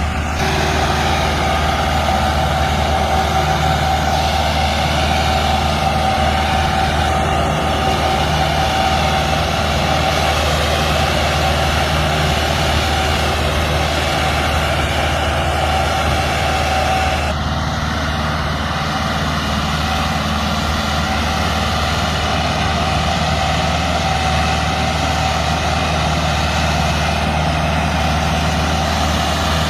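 Tractor diesel engine running steadily under load, a continuous low drone, its tone shifting slightly about seventeen seconds in.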